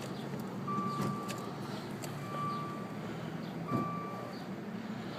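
Car warning chime beeping as a single steady tone about every one and a half seconds, the kind a car sounds with a door open or the key in.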